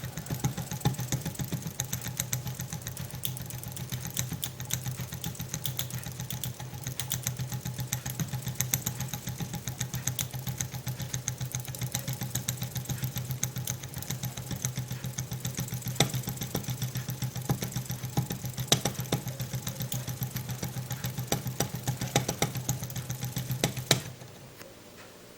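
Low-temperature Stirling engine running steadily, with a rapid, even clicking over a steady low hum. The sound drops away abruptly near the end.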